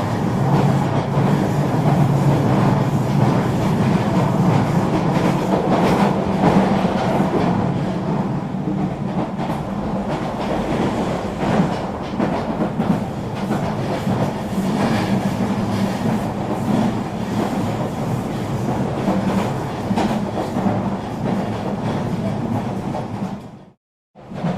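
Eurobahn regional train running along the line: a steady rumble and hum with scattered clacks of the wheels over the rails. The sound cuts out completely for about half a second near the end, then resumes.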